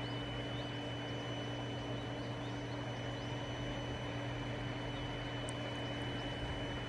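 A steady machine-like drone with a constant high whine, and faint short rising chirps high above it a few times a second.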